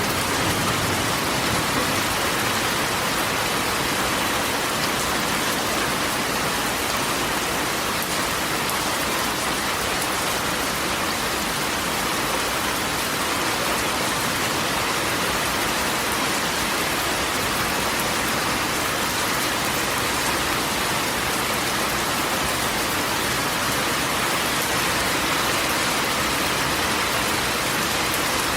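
Rain falling steadily on a corrugated tin roof, a dense, even hiss that holds at the same level throughout.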